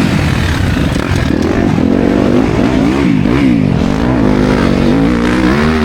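Four-stroke dirt bike engine, a Yamaha YZ250FX, being ridden hard, its revs rising and falling several times with throttle and gear changes.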